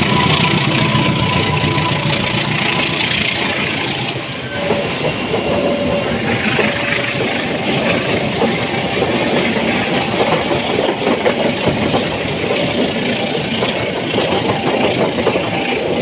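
Train passing at close range over a level crossing: a steady loud rumble of the cars, turning into a rapid clatter of wheels on the rail joints about four seconds in.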